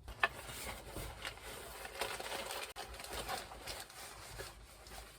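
Rustling and clicking of things being handled and packed, with a sharp click about a quarter second in.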